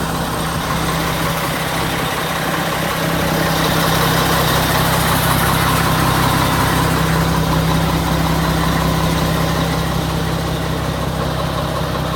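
1999 Mack RD690S truck's diesel engine idling steadily, growing a little louder about three and a half seconds in and easing back near the end.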